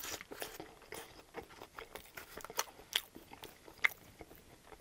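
Close-miked chewing of a mouthful of ketchup-covered fries: soft, wet mouth clicks and smacks, with a couple of sharper ones about three and four seconds in.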